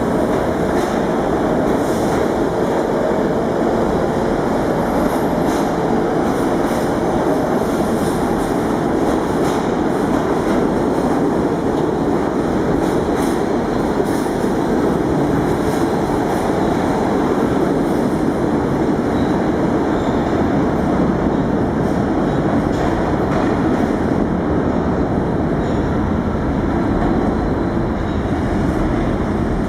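R46 subway train running through an underground station: a steady, loud rumble with scattered clicks from the wheels on the rails.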